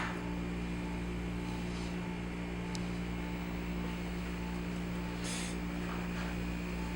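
Steady low mechanical hum with several held tones, as from a fan or motor running, with a brief soft hiss a little after five seconds.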